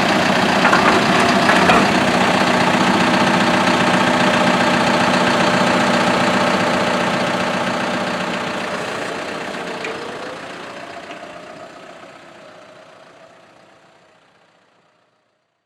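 Vehicle engine idling steadily, then fading away to silence over the last several seconds.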